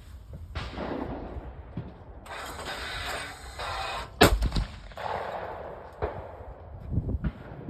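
A single sharp, loud crack about four seconds in, like a shot, with a few smaller knocks and a stretch of rustling noise around it.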